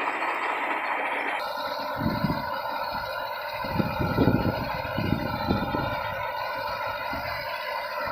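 Tractor engine running steadily, with a sudden change in its sound about a second and a half in and a series of low thumps in the middle.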